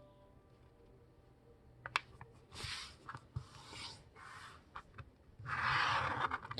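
A sheet of printer paper being folded in half and creased by hand: a short tap about two seconds in, then several brief rubbing strokes and a longer, louder one near the end as the fold is pressed flat.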